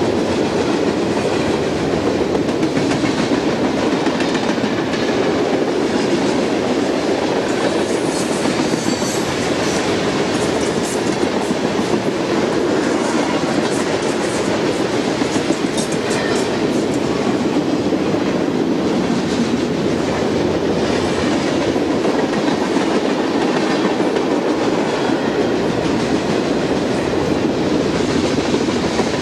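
A train rolling past with the steady noise of wheels on rail and scattered short high-pitched clicks in the middle.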